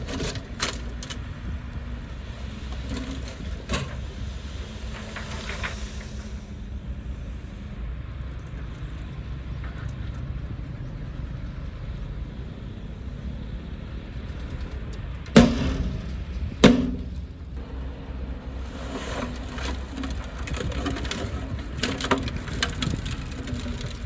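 Bulldozer's diesel engine running steadily while wood cracks and snaps as trees and branches are pushed over, with two loud sharp cracks about two-thirds of the way through.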